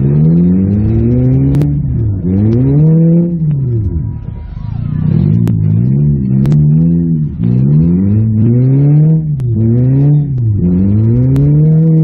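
Toyota Matrix's four-cylinder engine revving hard and letting off again and again, about five surges with the pitch climbing on each and dropping between, held at steady high revs near the end. Heard from inside the cabin, with a few sharp clicks and knocks.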